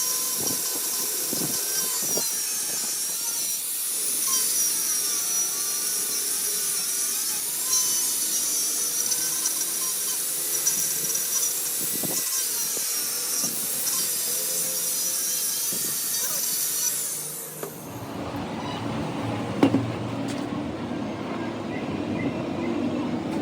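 Metalworking power tool cutting or grinding metal, a high, wavering whine over noise that changes pitch as it works. About three-quarters of the way through it gives way abruptly to a lower rumbling noise with a single sharp knock.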